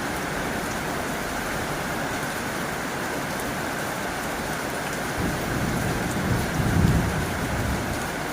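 Heavy rain drumming on a tin roof, a dense steady hiss. About five seconds in a low rumble swells up, is loudest near seven seconds, then fades away.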